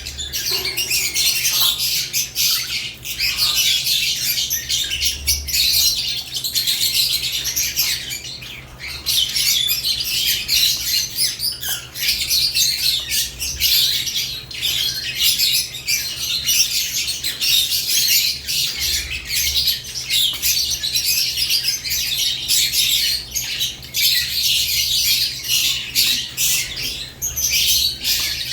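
Several caged lovebirds chirping without pause, many shrill high calls overlapping.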